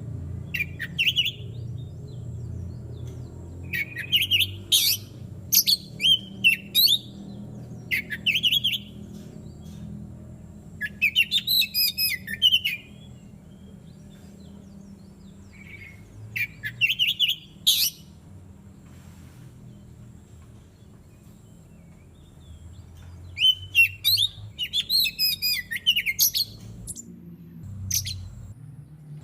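Oriental magpie-robin (kacer) singing in bouts of varied whistled and chattering phrases, with gaps of a few seconds between them, over a steady low hum.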